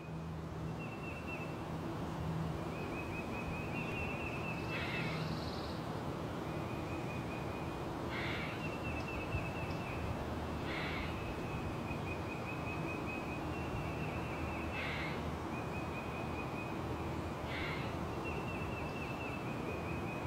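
Forest birdsong: a bird's fast trill sung over and over, each trill lasting a second or two, cut across about every three seconds by a short harsh call, over a steady background hiss and low hum.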